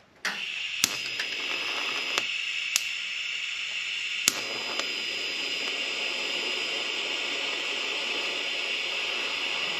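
TIG welding arc on stainless steel exhaust pipe, tacking without filler rod: a steady hiss that starts suddenly, with a few sharp cracks in its first few seconds.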